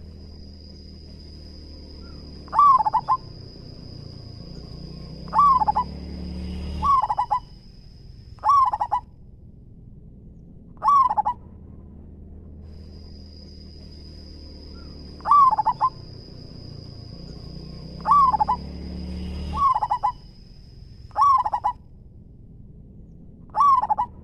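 Zebra dove (local perkutut) cooing: short rolling coos every two to three seconds, about ten in all. A steady high whistling tone runs behind the coos, with a break about halfway, and a low rumble sits underneath.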